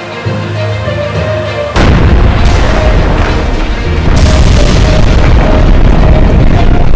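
Intro music, then about two seconds in a loud explosion-like boom sound effect breaks in over it. It carries on as a dense, deep rumble and swells again about four seconds in, with the music still faintly under it.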